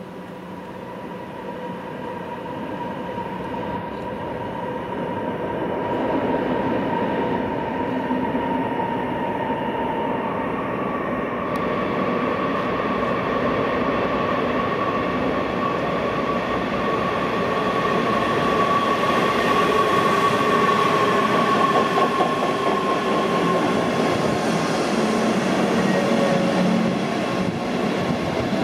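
Electric locomotive-hauled train of double-deck coaches approaching and running into the station, its rolling noise growing steadily louder, with a steady high whine over it.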